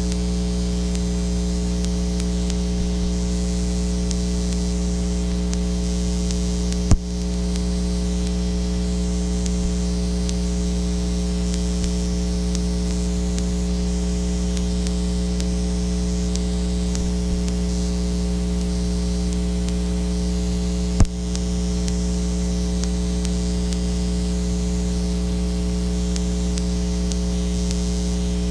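Steady electrical mains hum with background hiss, broken by two sharp clicks about fourteen seconds apart.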